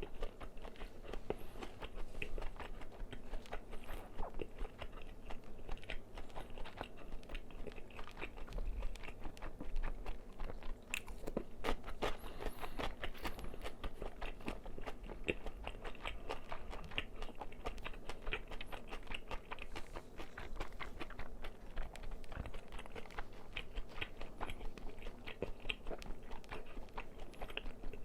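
Crispy fried chicken being bitten and chewed, the coating crackling in a dense, continuous run of small crunches.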